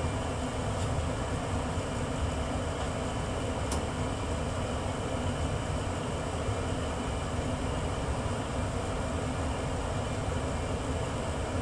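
1994 Tempstar SP80 gas furnace running steadily, its burners lit, with a steady low rumble. One faint click about four seconds in.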